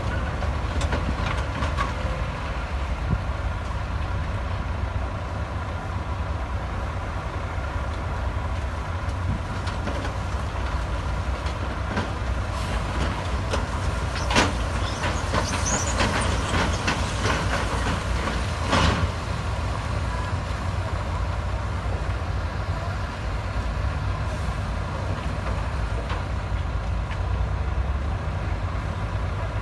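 Heavy diesel earthmoving machinery running steadily with a deep rumble, with a few metallic clanks and a short high squeal about halfway through.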